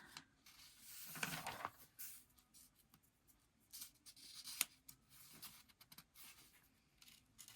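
Faint rustling and soft clicks of glossy magazine pages being handled, with a slightly louder rustle about a second in and a sharp click in the middle.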